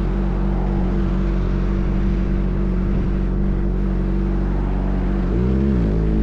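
Suzuki GSX-R motorcycle engine idling steadily through an M4 full-system exhaust, with one quick throttle blip, rising and falling, near the end.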